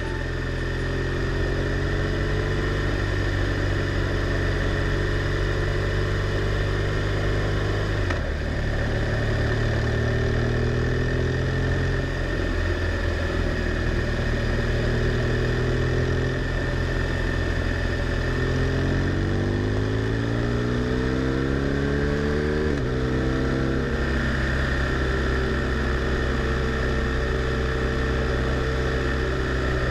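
BMW R1200R LC's boxer-twin engine running as the motorcycle rides along, over a steady rush of wind noise. The pitch shifts about eight and twelve seconds in, rises steadily from about eighteen seconds as it accelerates, then drops sharply with a gear change about twenty-three seconds in.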